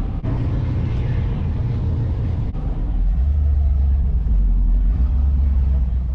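A car engine running with a low, steady rumble that gets louder about three seconds in.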